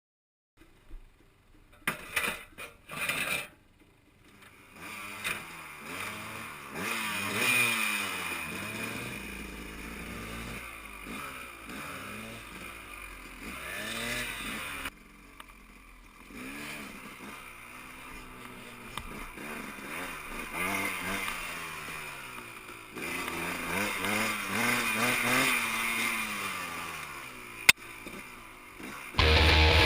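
Dirt bike engine revving up and down again and again while riding, easing off briefly about halfway. A few sharp knocks come in the first few seconds, and there is a single sharp click near the end.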